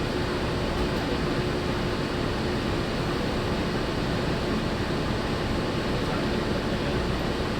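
Steady cabin noise inside a Walt Disney World monorail: an even rumble and hiss with a constant hum.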